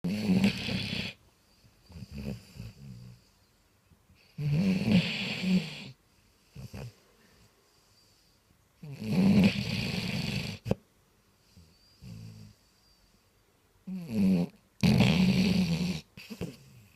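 Basset hound snoring in its sleep: four loud, rattling snores at a slow, even pace of about one every four to five seconds, with quieter breaths between them.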